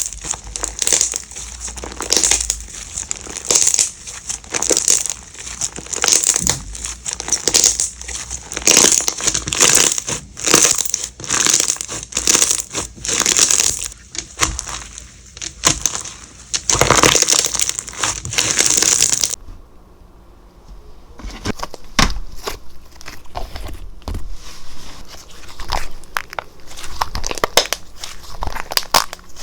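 Slime being squeezed and stretched by hand, with dense crackling and popping clicks. About nineteen seconds in it drops suddenly to a quieter stretch of sparser clicks and pops.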